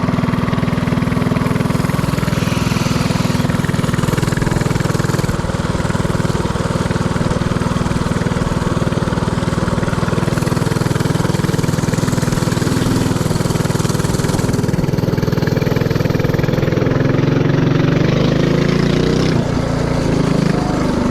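Predator 224cc single-cylinder four-stroke engine of a mini-bike running steadily under way.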